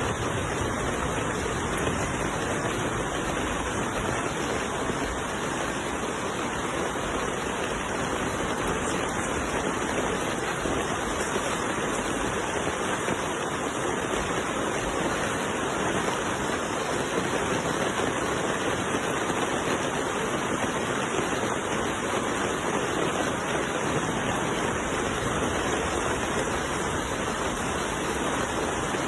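Steady rushing of water, an even unbroken hiss that does not change.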